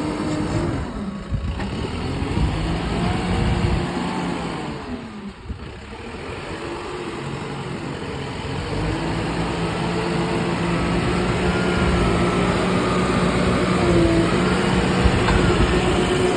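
Heavy work machine's engine running under changing load: its pitch rises and falls a few times in the first seconds, drops back briefly, then holds a steady note. The sound cuts off abruptly at the end.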